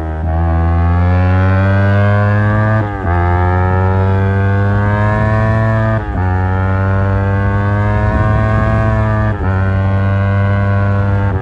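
Yamaha R25 parallel-twin engine through an Akrapovic exhaust, accelerating hard. The pitch climbs steadily in each gear, with three quick upshifts about 3, 6 and 9.5 seconds in.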